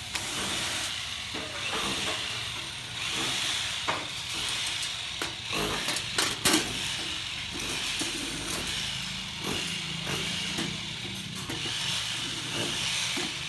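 Cordless drill, sold as a Makita 48V, running in short spurts to drive a Phillips screw, over a steady hiss. There are sharp clicks about four seconds in and a louder pair of knocks about six and a half seconds in.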